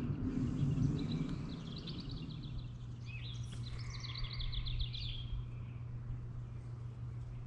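A small songbird singing two rapid, trilled song phrases, one after the other, over a low steady hum.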